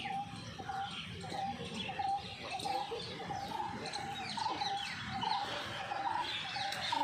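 Birds calling: a short call repeated about twice a second, with many higher chirps among it.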